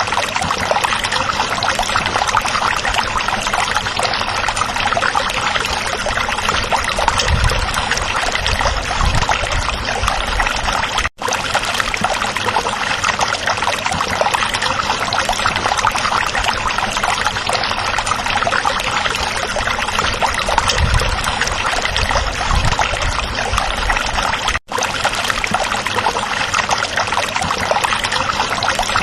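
A small stream babbling and trickling steadily. Twice the sound cuts out for an instant.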